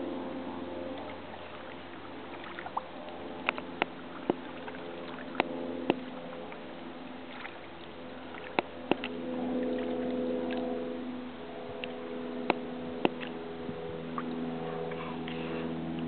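Canoe paddling: a dozen or so sharp, irregular knocks, like the paddle striking the canoe's side, over a steady low hum.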